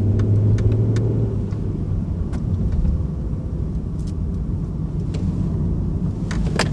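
Car engine and road noise heard from inside the cabin as the car accelerates to about 25 mph and weaves through a cone slalom: a strong low engine hum at first, easing into a steady low rumble, with a few faint clicks.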